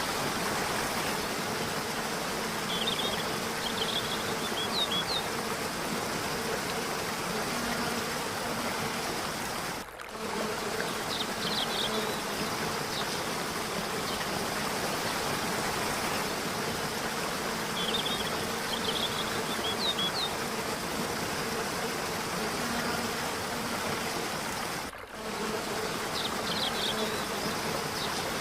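Steady sound of falling, flowing water. Brief high chirps come through it in short groups several times, and the water sound dips for a moment twice.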